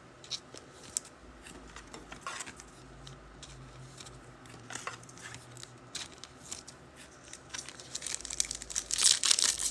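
Trading-card packs and cards being handled: crinkling of wrappers and light clicks and rustles, getting louder and denser near the end.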